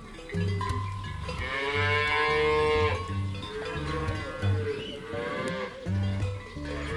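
Cow mooing in two long calls, the second sagging in pitch, over background music with a steady low beat.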